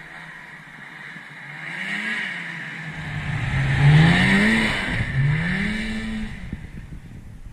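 A small off-road engine revving up and falling back several times in quick succession, loudest about four seconds in, over a hiss; the sound cuts off suddenly at the end.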